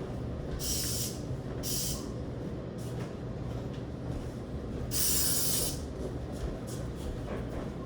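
Spraying: short bursts of hissing spray, three times, the longest and loudest about five seconds in, over a steady low rumble.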